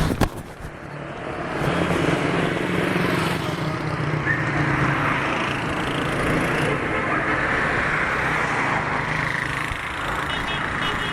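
City street traffic: car engines running and passing by, with a sharp knock or two right at the start.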